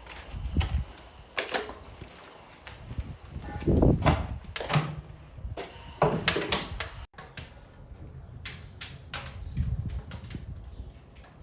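Wood fire in a fireplace crackling and popping: irregular sharp pops, some in quick clusters, with a few dull low thumps among them.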